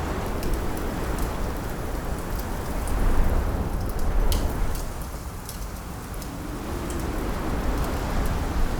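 Wood fire crackling with scattered sharp pops, over a steady low rush of wind that swells about three seconds in.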